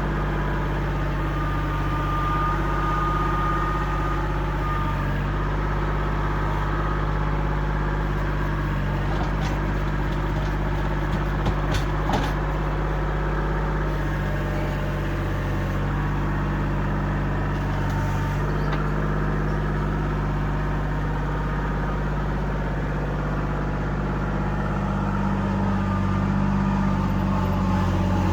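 Kubota L2501 tractor's three-cylinder diesel engine running steadily, getting a little louder near the end, with a couple of short knocks partway through.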